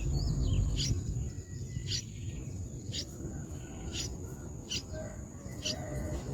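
Bird chicks cheeping: a short, high call repeated about once a second. Beneath it runs a steady high insect trill.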